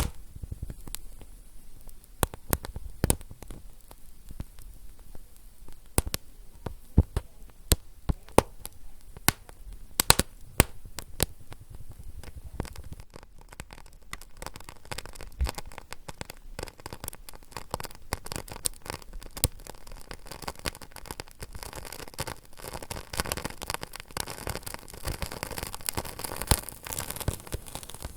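A fire crackling, with sharp, irregular pops over a soft hiss. The hiss grows fuller in the second half, and the loudest pops come a few seconds in.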